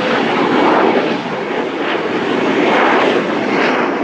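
Jet aircraft engines, a loud rushing noise that swells and eases every second or so.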